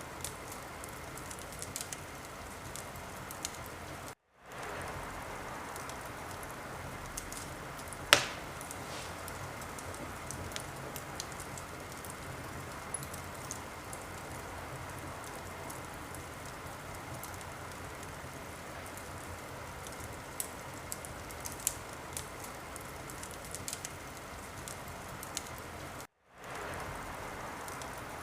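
Wood fire in a fireplace crackling steadily, with scattered small pops and one louder pop about eight seconds in. The sound drops out completely for a moment twice.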